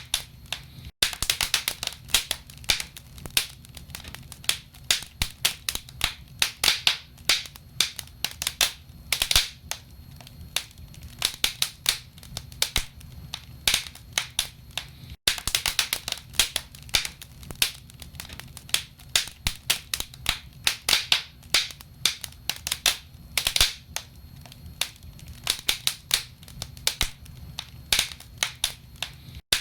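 Wood fire burning in a fireplace, logs crackling with irregular sharp pops, often in quick clusters, over a steady low rumble. The sound cuts out for an instant twice, about a second in and about halfway through.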